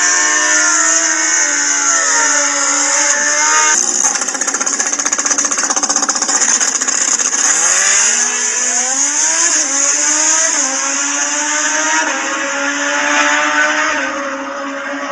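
High-revving motorcycle engines running at racing speed, their pitch swinging up and down as they rev. A little under four seconds in the sound changes abruptly to a rougher note, and around the middle one engine's pitch climbs steeply as it accelerates.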